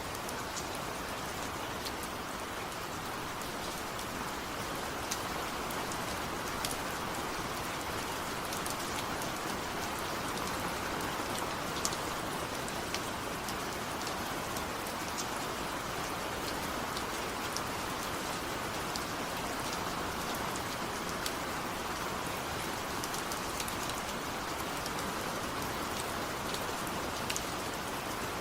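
Steady rain, an even hiss with scattered sharp ticks of individual drops striking a surface.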